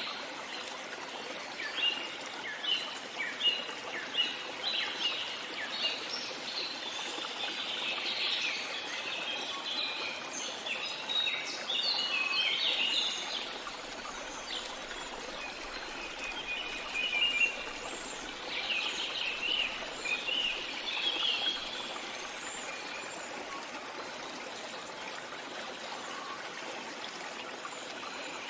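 Small songbirds chirping and twittering in busy bursts over a steady trickling stream. The bird calls thin out for the last several seconds, leaving mostly the water.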